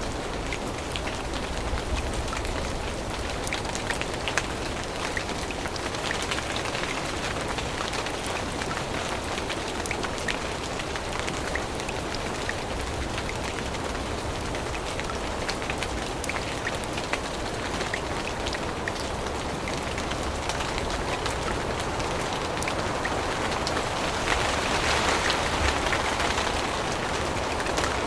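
Steady rain falling on forest leaves, with many separate drops ticking through it; it grows louder for a few seconds near the end.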